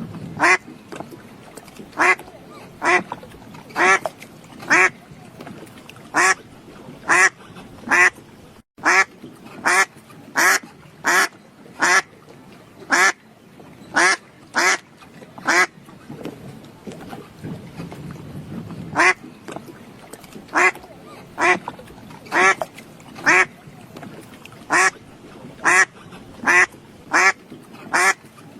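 A bird giving short, harsh, pitched calls over and over, about one a second, with a pause of about three seconds a little past the middle.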